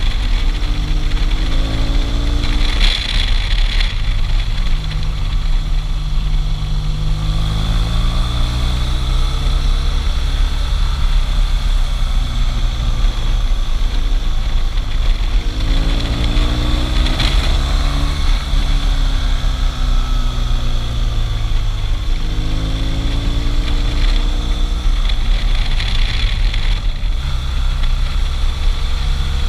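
Motorcycle engine running under way, its revs repeatedly climbing and then dropping back, as on gear changes and corners.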